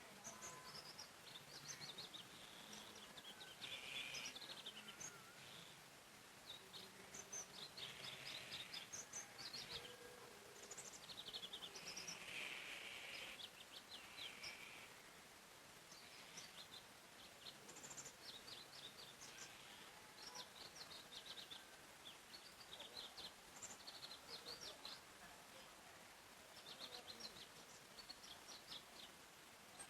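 Faint forest birdsong: several small birds chirping and singing in quick runs of short high notes that come and go throughout.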